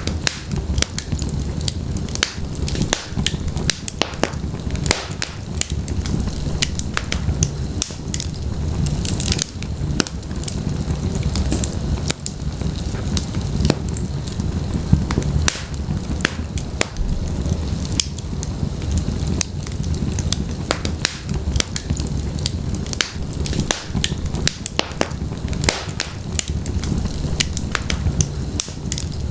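Wood fire of burning logs in a fireplace, crackling and popping irregularly over a steady low rumble of flame.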